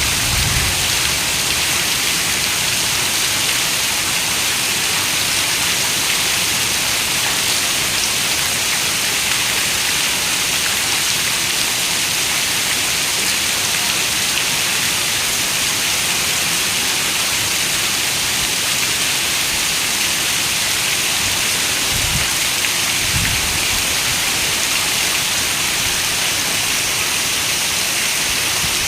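Heavy rain falling steadily on a window, a dense, even hiss. Twice, about three-quarters of the way through, a faint low rumble rises briefly under it.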